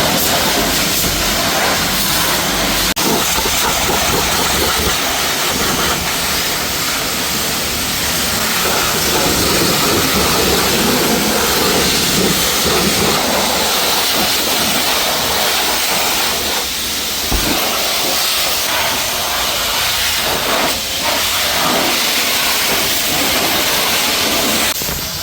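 Pressure washer jet spraying water onto a car's body: a loud, steady hiss that runs without a break.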